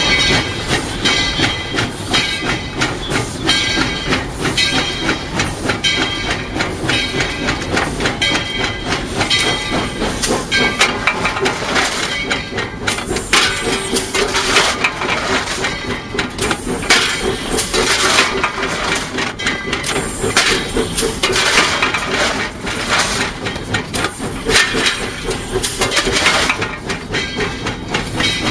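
The 4-6-0 steam locomotive ET&WNC #12 running, heard from inside its cab: a steady mix of rhythmic mechanical clatter and hissing steam, with louder hissing stretches in the second half.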